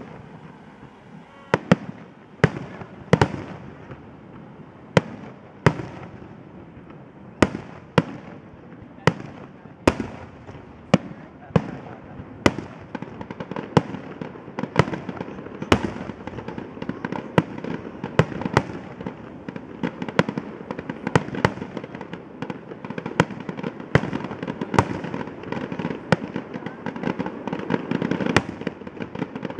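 Fireworks display: aerial shells bursting with sharp bangs one after another, about one a second at first, then coming faster over a growing rumble and crackle that is thickest near the end.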